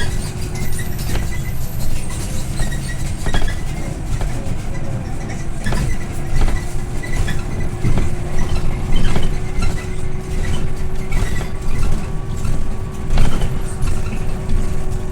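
Scania OmniLink I city bus heard from inside the cabin while driving: a steady low engine and road rumble with a constant hum, and frequent body and fitting rattles and knocks over bumps.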